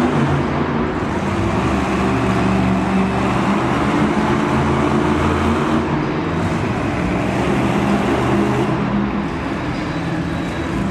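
A monster truck engine running loudly and fairly steadily, its pitch shifting a little as it goes.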